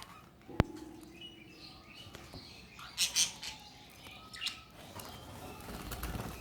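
Pet budgerigars chirping in short, high calls, loudest in a pair about three seconds in, with one sharp click about half a second in.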